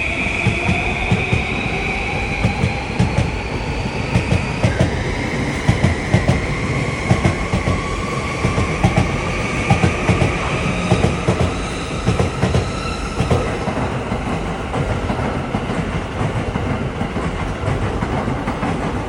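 Electric commuter train accelerating along the platform, its motor whine climbing slowly in pitch for about thirteen seconds and then fading, over the rumble and clickety-clack of its wheels on the rails.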